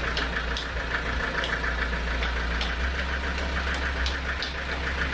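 Sawmill machinery running steadily: a low engine hum with a fast rattle and regular sharp ticks about two to three times a second.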